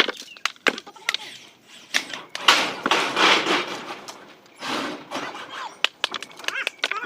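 A string of sharp knocks and clatter, with a longer harsh scraping noise about two and a half seconds in and a shorter one near five seconds.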